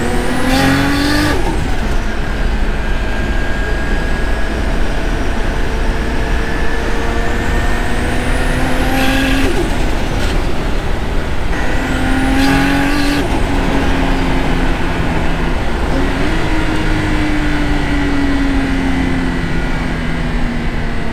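Turbocharged Nissan RB25DET Neo straight-six with a large BorgWarner turbo, heard from inside the C33 Laurel's cabin, driving on part throttle, its note rising and falling through the gears. A thin turbo whistle rises and falls as it spools, and three hissing bursts of about a second each come as the turbo vents.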